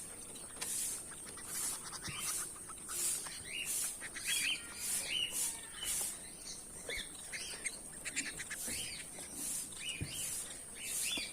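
Goldfinches chirping and twittering in quick, short notes. Over the birds a very high, even pulse repeats about every two-thirds of a second.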